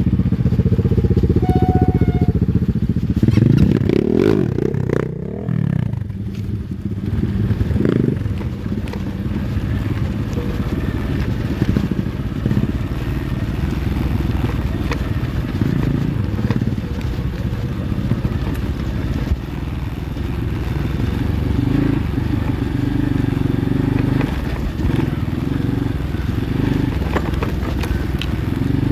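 Kayo pit bike engine running as the bike is ridden, its revs rising and falling with the throttle, sharpest in the first few seconds. Light clatter and scraping come from the bike over rough ground.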